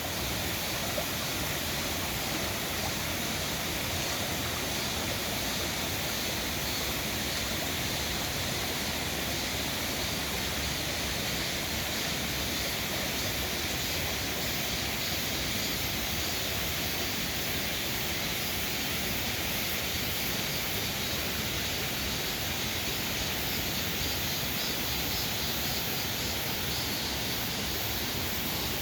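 Mountain stream in a valley flowing, a steady, even rush of water.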